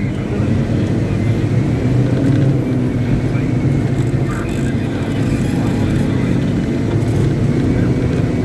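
Caterpillar 777D haul truck's V8 diesel engine running steadily at a constant speed, a loud low drone with no change in pitch.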